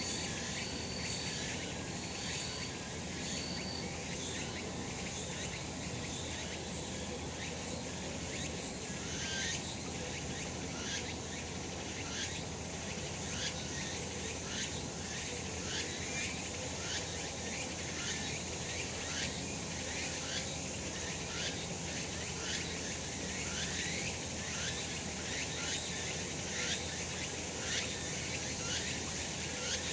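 Cicadas singing in a steady, dense chorus. From about nine seconds in, one call repeats in quick short phrases, a little more than one a second, over the chorus. A few short high notes sound near the start.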